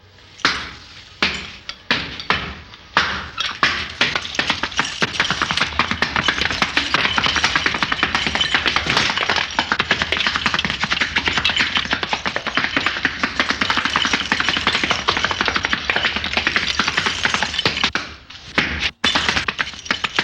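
Flamenco footwork: shoes stamping and tapping on a hard floor, a few separate stamps at first, then a fast, unbroken rattle of heel-and-toe taps, with a brief break near the end.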